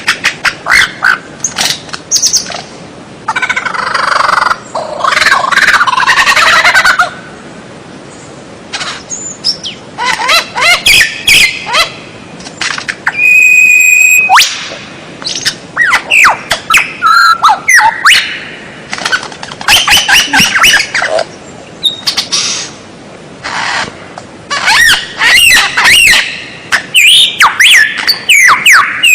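White-rumped shama (murai batu) singing a loud, varied song of quick whistled phrases, fast trills and harsh squawky notes in bursts with short pauses, including one held single-pitch whistle about halfway through.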